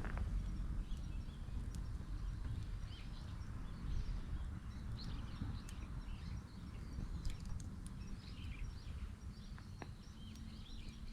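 Garden wood fire burning, with a low rumble and a few sharp crackles. Small birds chirp in the background.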